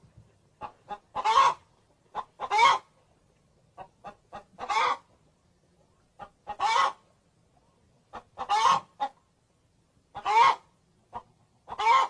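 Domestic hen cackling: a few short clucks leading into a louder drawn-out squawk, repeated about every two seconds.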